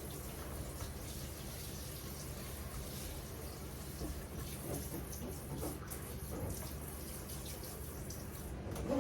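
Kitchen tap running steadily into the sink while dishes are rinsed, with a few faint knocks of dishes.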